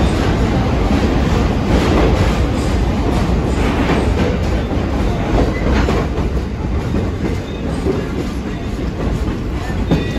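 Passenger train running on the track, heard from an open-air car: a steady loud rumble of wheels on rails with a few clicks. It is a little louder in the first half, while the car is in a tunnel, and eases slightly as it comes out into the open.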